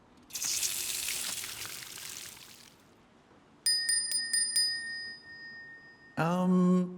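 A water cannon sprays with a rushing hiss for about two and a half seconds. Then a small bell is struck about four times in quick succession and rings on. A voice starts near the end.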